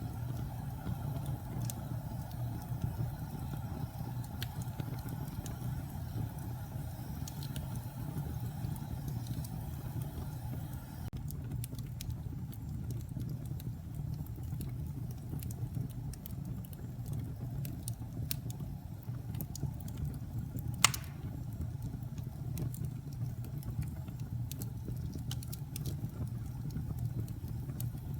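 Wood fire burning in a fireplace: a steady low rumble of flames with sparse faint crackles, and one sharp loud pop about three-quarters of the way through.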